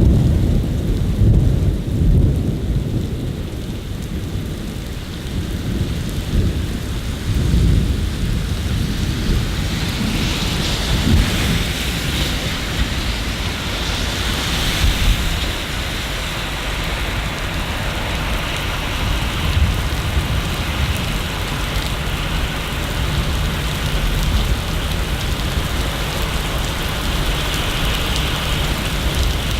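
Steady rain falling, with thunder rumbling low underneath, loudest in the first couple of seconds. The rain hiss grows heavier about ten seconds in.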